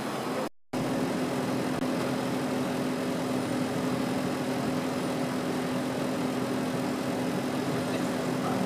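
A car engine idling steadily with a constant hum. The sound cuts out completely for a moment about half a second in.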